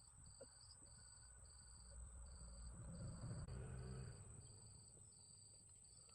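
Faint insect chirping: a steady high buzz with an evenly pulsed chirp a little under twice a second. A low rumble swells and fades in the middle.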